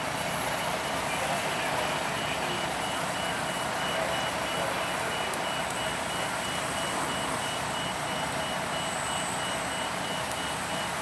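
Truck's reversing alarm beeping repeatedly over steady vehicle engine noise.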